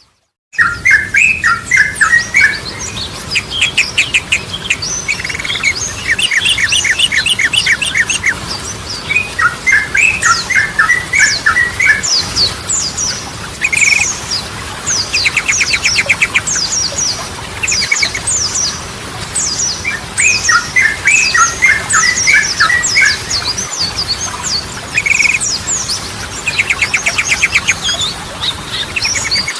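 Yellow-vented bulbul (trucukan) song: bubbly, chattering phrases that recur every few seconds over a constant stream of quick, high, falling chips. The song starts after a brief silence right at the beginning.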